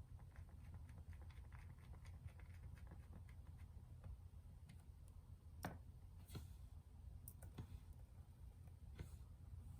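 Near silence with faint scattered small clicks and taps, a few slightly sharper ones near the middle and toward the end.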